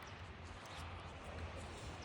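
Faint, steady background noise with a low hum and no distinct events.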